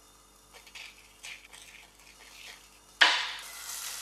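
Faint knife taps and scrapes on an avocado, then about three seconds in a sudden loud sizzling of feta and egg frying in a pan, which settles to a steady sizzle.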